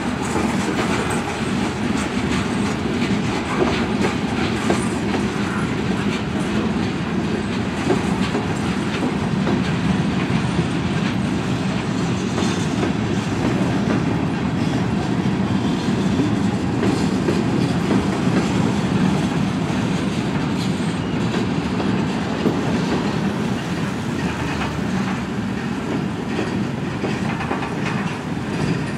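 A train's cars rolling steadily past, their wheels clattering over the rails in a dense, unbroken run of clicks.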